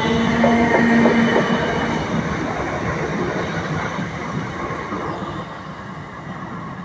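A train running past with a steady rumble and, for the first two seconds or so, several high whining tones over it. The tones stop and the rumble fades steadily as the train moves away.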